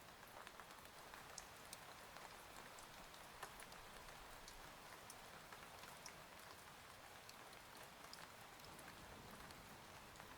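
Faint steady rain: an even hiss of rainfall with many small droplet ticks scattered through it.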